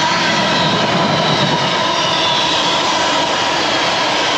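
A train passing through at speed: a steady, loud rush of noise with a faint whine.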